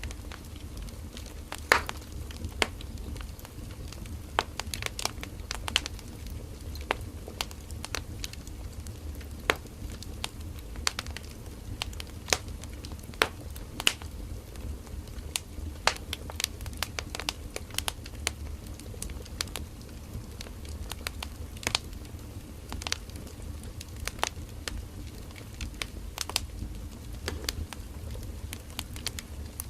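Burning firewood crackling and popping: sharp irregular snaps, several a second, over a steady low rumble of the fire.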